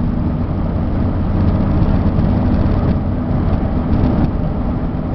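A 1994 Ford F600 box truck cruising at about 60 mph, heard from inside the cab: its 7.0-litre V8 running steadily under a low, even drone of road and tyre noise.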